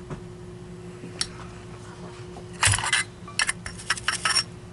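Hard objects clinking and clattering as they are handled on a workbench: one click, then two bursts of rattling about halfway through and near the end.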